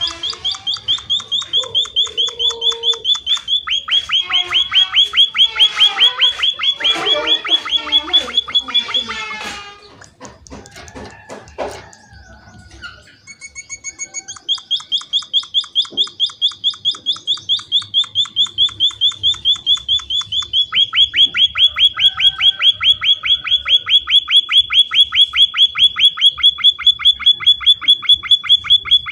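Emprit finches (munias) calling: long runs of fast, evenly repeated high chirps, about four a second, mixed with varied chattering calls in the first third. The chirping breaks off briefly around the middle, then resumes steadily.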